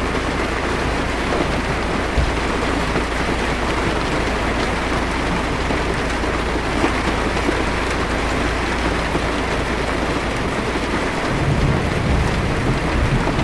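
Heavy rain falling steadily on a car's windshield, heard from inside the car. A low rumble of thunder comes in near the end.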